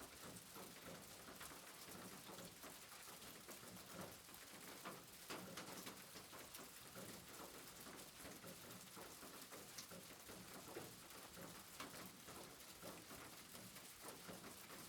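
Faint, steady rain falling, with many small drop ticks.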